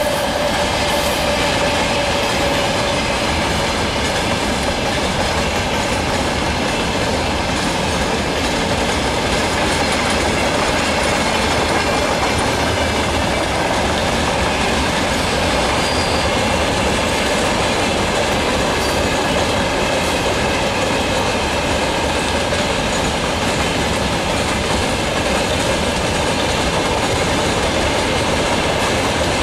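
Loaded freight wagons of a long train rolling past: a steady, loud rumble and clatter of steel wheels on the rails, with a thin whine that fades out in the first three seconds.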